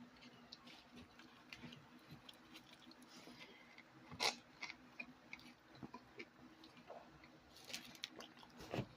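Faint chewing and small mouth clicks of someone eating a pork pupusa, with one sharper click about four seconds in.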